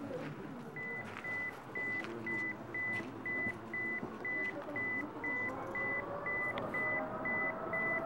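A steady electronic beep repeating about twice a second. Under it, from about halfway in, the rising whine of the Boeing 787's jet engines spooling up for takeoff.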